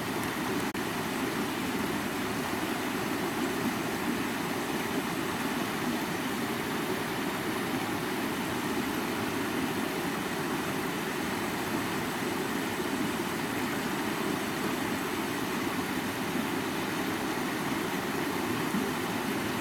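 River water flowing, a steady deep rushing with hiss above it that holds even and unchanging throughout.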